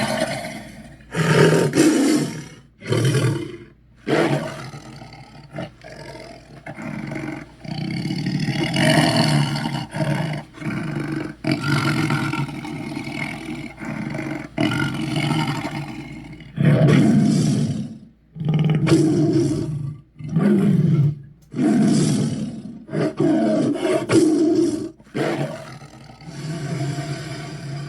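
Monster roar sound effects for a kaiju or dragon: a string of about a dozen rough roars and growls, some long and some short, one after another with brief pauses between them.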